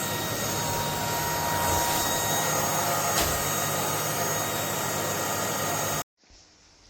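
Cordless stick vacuum cleaner running steadily, a rushing airflow with a high whine, cutting off abruptly near the end.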